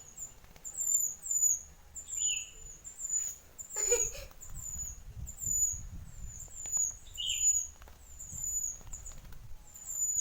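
Oriental magpie-robin (burung mantenan) calling: short, high chirps with a falling hook repeat about twice a second, and twice a louder, lower down-slurred call breaks in. About four seconds in, a brief rustle, like a bird shifting or flapping, cuts across the calls.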